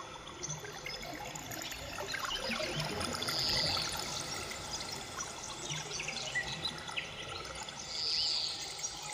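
Birds chirping and calling over a steady wash of flowing water, with two clearer high calls, one about a third of the way in and one near the end.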